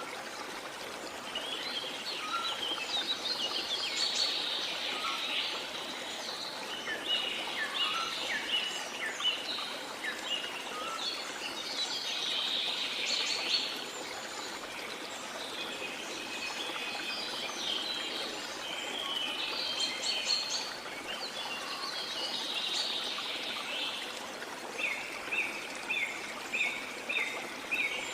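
Many birds chirping and trilling over the steady rush of a flowing stream, with one bird repeating a short note about twice a second near the end.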